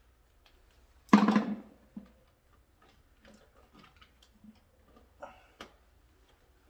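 Scattered light clicks and taps of small hand work on a wiring board, with one louder knock about a second in.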